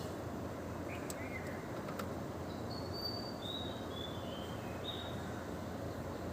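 Birds chirping: a string of short high notes over a steady outdoor background rush.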